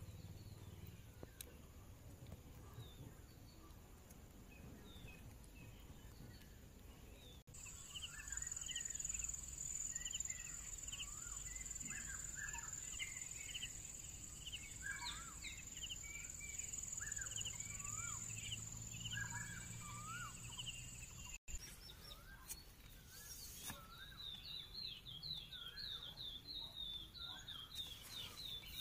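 Wild birds calling, with many short chirps and whistles, and near the end a fast trill of rapidly repeated notes. Through the middle a steady high-pitched whine runs under the calls, and the sound changes abruptly twice.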